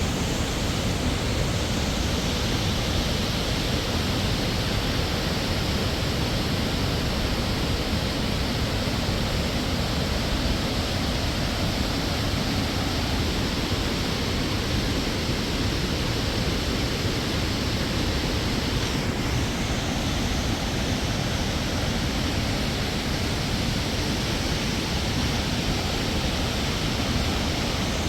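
Waterfall: falling water rushing steadily, an even unbroken noise without change.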